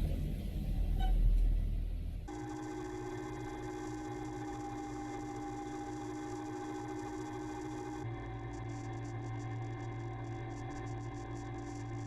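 The low rumble of the opening music fades out. Then a Ka-27PS helicopter runs steadily: a hum with several constant whining tones from its turbines and gearbox. The mix of tones shifts abruptly about eight seconds in.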